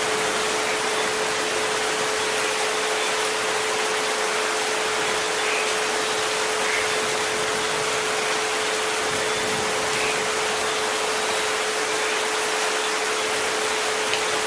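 Steady rain hiss with a continuous pure tone at 432 Hz and a fainter one at 528 Hz held underneath, unchanging throughout.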